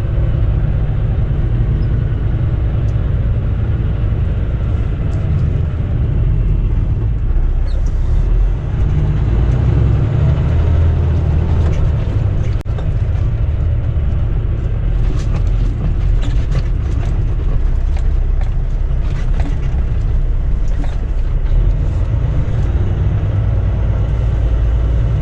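Semi-truck diesel engine running steadily as the truck rolls slowly through a parking lot, a continuous heavy low rumble with scattered light clicks and rattles in the second half.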